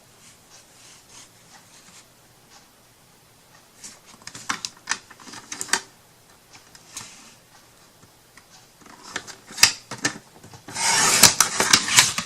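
Paper being handled and cut into strips: light crackles and clicks, then a rasping stroke of about a second near the end.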